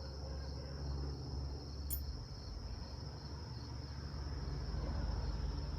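Crickets trilling steadily in one continuous high tone over a low rumble, with a single sharp click about two seconds in.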